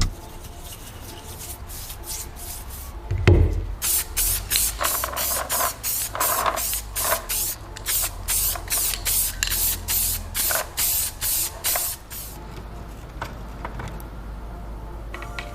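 An aerosol spray can giving a rapid run of short hissing sprays, about three a second, after a single knock.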